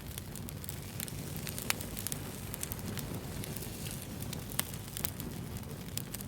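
Wood fire burning with a steady low rumble and irregular sharp crackles and pops, two louder pops standing out.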